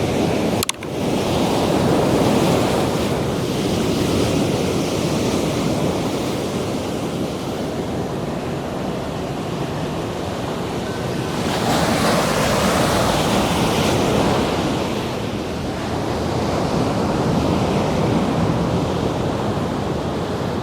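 Ocean surf breaking and washing up the beach, a steady rushing with wind on the microphone. The wash swells louder for a few seconds past the middle as a wave surges in.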